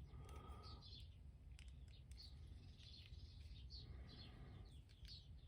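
Near silence with faint, repeated bird chirps and a few light clicks.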